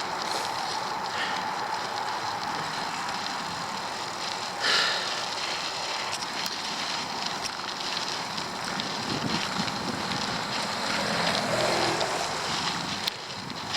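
Bicycle riding uphill: steady noise of tyres rolling and the drivetrain, with wind on the microphone, and a brief louder sound about five seconds in.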